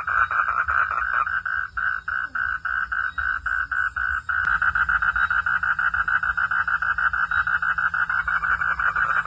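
A chorus of frogs calling in rapid pulses, about six a second. Halfway through there is a brief click, and the calling turns denser and more continuous.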